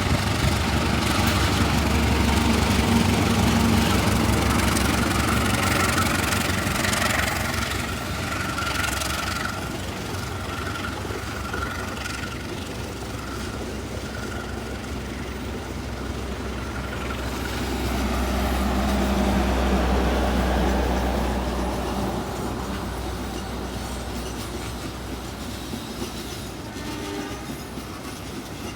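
Passenger train passing on the rails: a heavy low rumble that swells twice, with wheels running over the track and a faint thin squeal in the first half.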